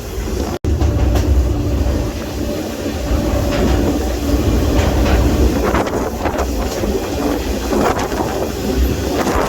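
Freight train rolling along, heard from aboard: a steady low rumble with scattered knocks and rattles from the cars and wheels.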